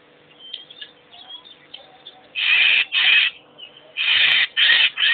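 Wild bird calls: faint chirps, then five loud, harsh calls of about half a second each, two together and then three together a little later.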